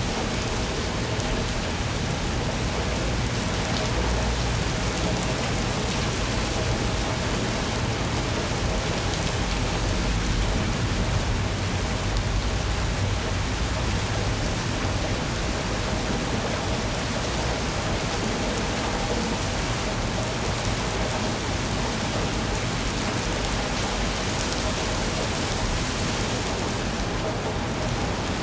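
Steady rain falling on surfaces, an even hiss with a low rumble underneath.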